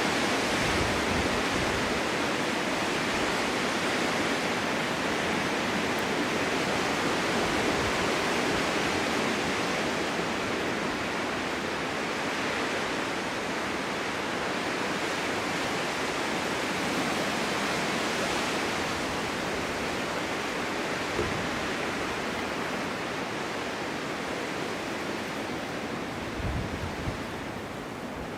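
Snowstorm wind blowing steadily, an even rushing that swells and eases gently, with a brief low buffeting rumble near the end.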